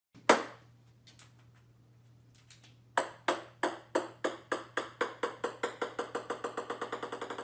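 A single sharp click, then a long run of small hard ringing taps that come ever quicker and slowly softer, like a small hard ball bouncing down to rest on a hard surface.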